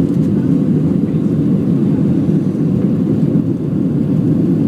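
Steady low rumble of a Boeing 737's jet engines and rushing air, heard inside the passenger cabin during take-off.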